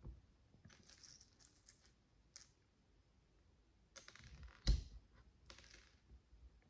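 Tiny plastic micro bricks clicking and rattling as they are handled, in a few short clusters of light clicks. There is one louder knock on the work surface about two-thirds of the way through.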